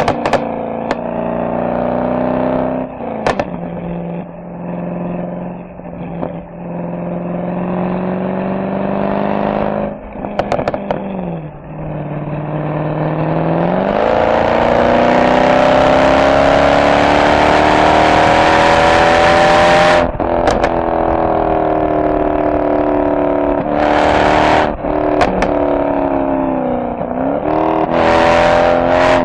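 Mercedes SL63 AMG V8 exhaust while driving. It holds a steady pitch at first and drops in pitch around the middle. Then it builds hard under acceleration for several seconds, breaks sharply at a gear change about twenty seconds in, and gives short crackles when the throttle lifts.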